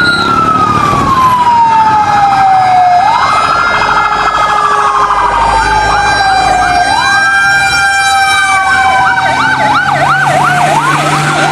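Electronic fire-engine siren wailing in slow sweeps, each rising quickly and falling slowly, with a faster yelping siren layered over it from about halfway through.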